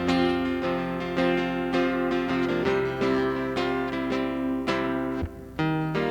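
Acoustic guitar strummed through an instrumental passage, chords struck about every half second, with a brief drop in loudness about five seconds in.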